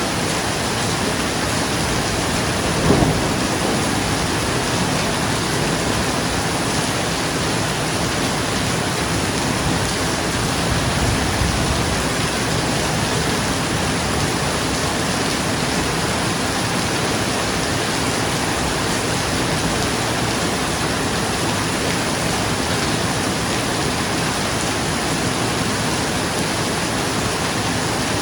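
Steady rain falling on a roof, with a sudden thunderclap about three seconds in and a low roll of thunder around eleven seconds.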